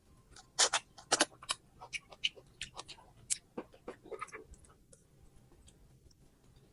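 Close-up chewing of crunchy fruit: irregular crisp crunches and mouth clicks, thinning out about four and a half seconds in.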